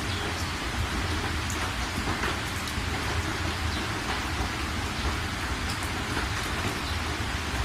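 Steady heavy rain, a dense even hiss with scattered drop ticks over a continuous low rumble.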